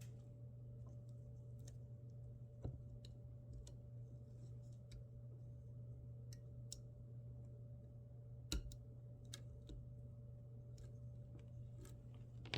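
Faint scattered clicks of small plastic cable connectors being handled and plugged into a laser engraver's limit switch and stepper motor, with two louder clicks, one early and one past the middle, over a steady low hum.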